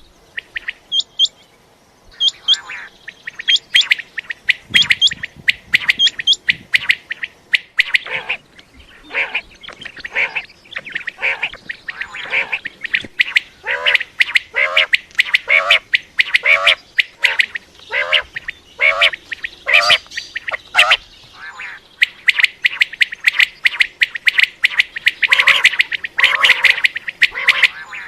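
Common quail calling over and over: a dense run of short, sharp calls, several a second, with lower, deeper notes mixed in through the middle.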